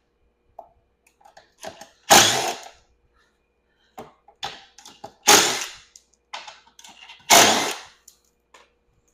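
Golf cart body parts being pried loose after their rivets were drilled out: three loud sharp pops or snaps about two, five and seven seconds in, with small clicks and rattles between them.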